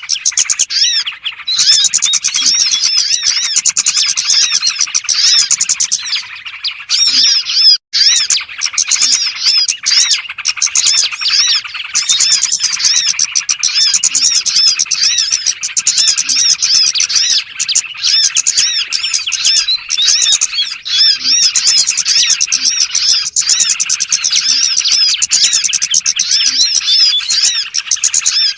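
Dense, continuous twittering of many small songbirds: fast, repeated high chirps piled over one another, with a momentary break about eight seconds in. It is a bird-trapping lure call (suara pikat) meant to draw small birds in.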